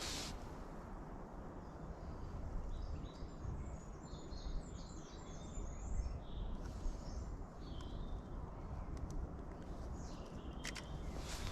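Small songbirds chirping and singing in quick high phrases, busiest for a few seconds in the middle, over a steady low outdoor rumble. A couple of faint clicks come near the end.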